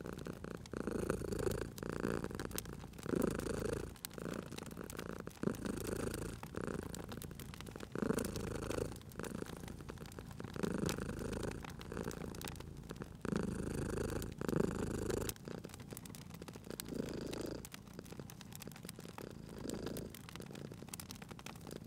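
Domestic cat purring, swelling and fading in a slow rhythm every second or two, with the small sharp pops and crackles of a wood fire.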